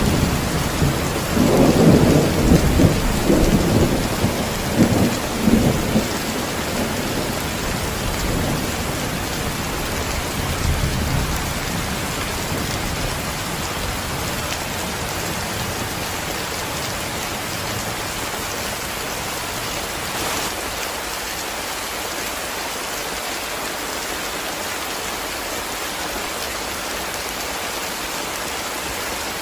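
Heavy rain falling steadily, with thunder rumbling low in uneven rolls for the first several seconds before it dies away.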